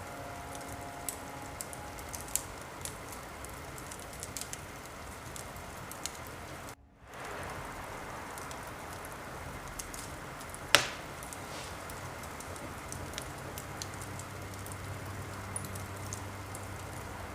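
Steady rain with a fireplace crackling: scattered small pops and one sharper crack about eleven seconds in. The sound briefly drops out about seven seconds in.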